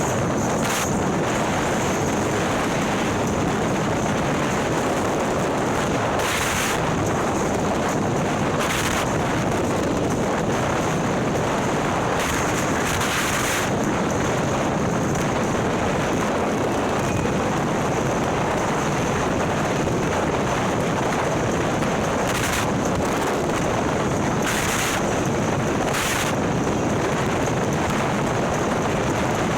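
Steady wind rush over the microphone of a motorcycle at riding speed, with the Harley-Davidson's 130ci Milwaukee-Eight V-twin and ThunderHeader exhaust running underneath. Short hissing gusts come through every few seconds.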